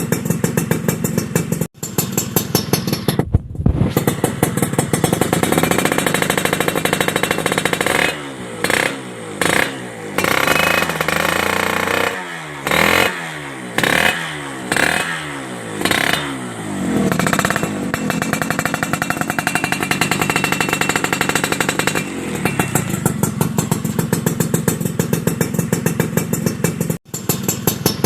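Suzuki Satria motorcycle with a WRS aftermarket racing exhaust idling, then revved in a quick string of throttle blips in the middle, each rising and falling in pitch, before settling back to idle.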